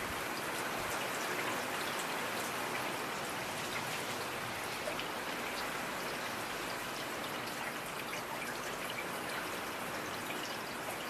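Steady rain falling, a constant hiss with many individual drops ticking close by.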